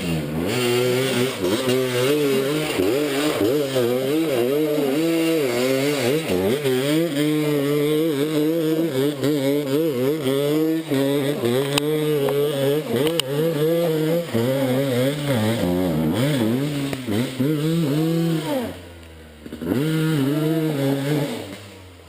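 Enduro dirt bike engine revving hard, its pitch rising and falling again and again under throttle. It drops off briefly about three-quarters of the way through, then revs up again.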